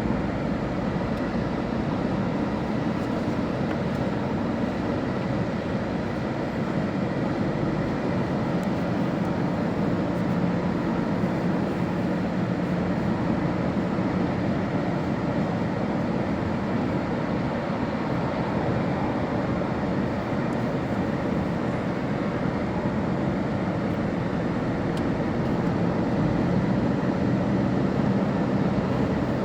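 Car driving at highway speed: a steady mix of engine and tyre road noise that holds evenly throughout, strongest in the low range.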